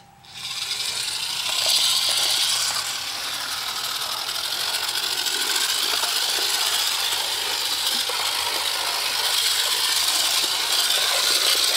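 HO-scale model of the D823 Hermes Warship-class locomotive running, a steady fast mechanical rattling and clicking that starts about half a second in.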